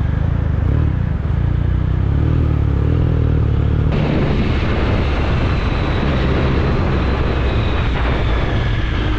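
Triumph Speed Triple 1050's three-cylinder engine running steadily on the move through an SC Project aftermarket exhaust. About four seconds in the sound changes abruptly and gets brighter.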